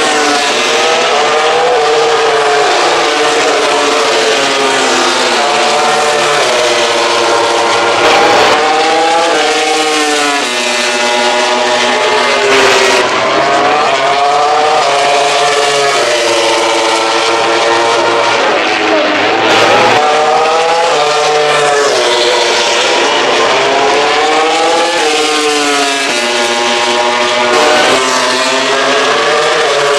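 Several MotoGP racing motorcycle engines accelerating hard, their overlapping notes climbing in pitch and dropping back again and again as the riders shift up through the gears.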